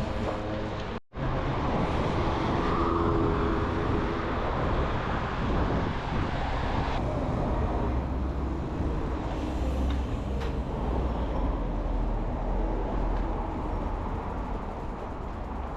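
A vehicle on the move, with a steady rumble of engine and road noise. The sound cuts out completely for a moment about a second in.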